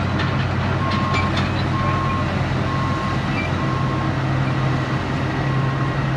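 Construction truck's engine running steadily, with its backup alarm beeping about once a second: the truck is reversing.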